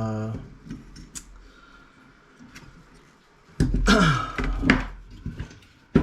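Hands handling a CRT monitor's circuit board on a bench: a few light clicks, then a rough scrape lasting about a second and a half a few seconds in, and sharp knocks near the end.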